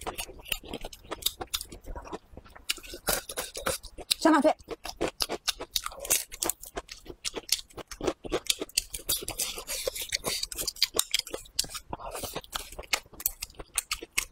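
A person chewing a mouthful of braised pig tail, close to the microphone, with many irregular wet mouth clicks.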